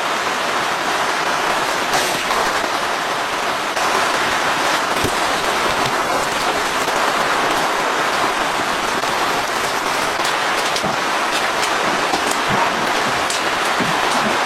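Steady rain falling, with many individual drops pattering sharply on a near surface.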